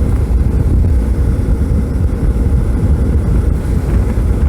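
Suzuki V-Strom 650's V-twin engine running under way, buried in a steady, rough wind rumble on the chest-mounted phone's microphone.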